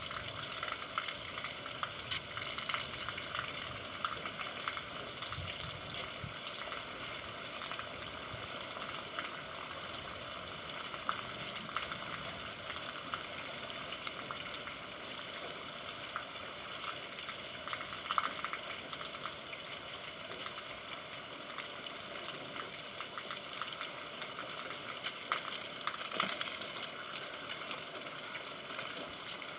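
Steady rain falling: an even hiss of drops with many small, sharper drop hits scattered through it.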